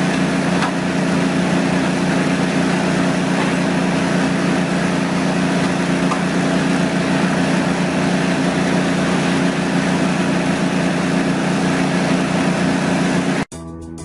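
Engine running steadily under load with a strong, even hum, then cut off abruptly near the end as guitar music starts.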